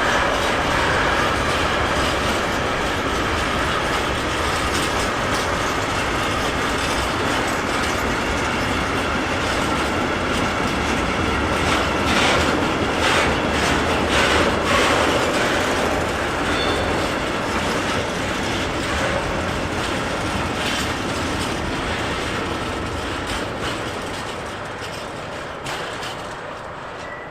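A train rolling past, its wheels clattering over the rail joints with some sharp clicks midway, then fading as it moves away near the end.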